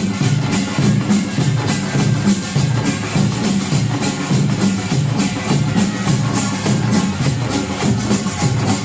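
Korean pungmul percussion band playing loud and fast: kkwaenggwari small gongs clanging in a quick, even rhythm over janggu hourglass drums and buk barrel drums.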